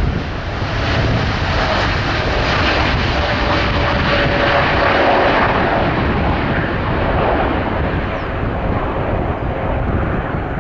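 Boeing 787-8 jet airliner departing at takeoff power: a loud, steady jet-engine noise with a faint whine that slowly falls in pitch as the aircraft passes.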